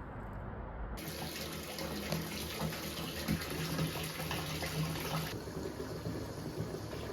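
Water running steadily, like a tap into a sink. The sound changes abruptly about a second in and again around five seconds in.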